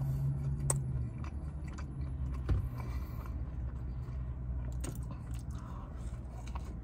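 Close-miked chewing and biting of a fast-food sandwich: mouth sounds with scattered small clicks over a low, steady hum.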